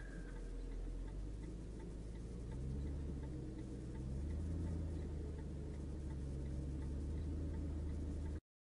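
A car's turn-signal indicator ticking evenly over the low drone of engine and road noise inside the cabin. The sound cuts off abruptly near the end.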